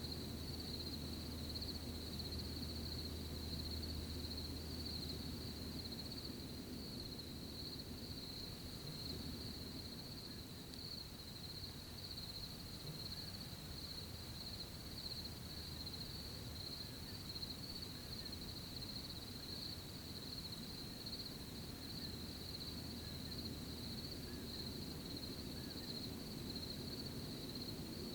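Crickets chirping in a steady, unbroken high trill, over a faint low hum that fades out about six seconds in and returns near the end.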